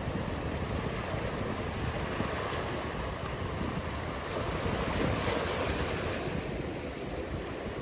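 Ocean surf: a continuous wash of breaking waves with a low gusty rumble of wind on the microphone, swelling briefly about five seconds in.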